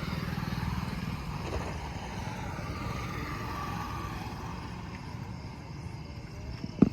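A vehicle engine running with a steady low rumble. A sharp knock sounds right at the end.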